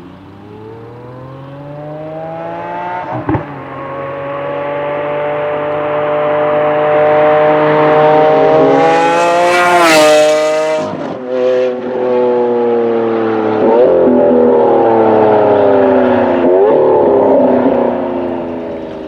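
Lamborghini Aventador V12 accelerating, its pitch climbing with a sharp crack at a gear shift about three seconds in, then passing close about ten seconds in with the note dropping as it goes by. After that it runs on at a slowly falling pitch with a couple more short cracks.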